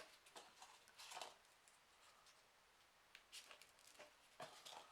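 Faint, brief rustles and soft clicks of folded paper pieces being handled and slotted into a 3D origami model, a few times over.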